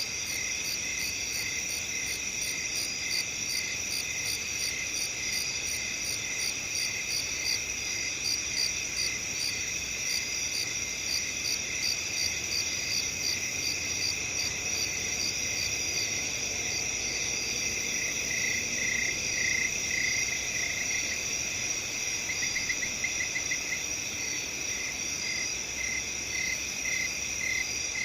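Night chorus of crickets: steady high trills overlaid with evenly repeated chirps, with a louder, faster run of chirping about two-thirds of the way through.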